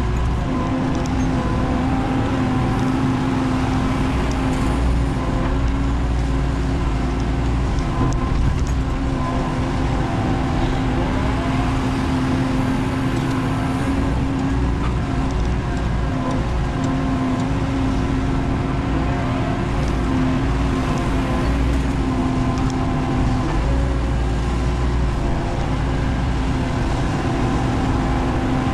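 Menzi Muck spider excavator's diesel engine running steadily under load, with higher tones that slide up and down as the machine works.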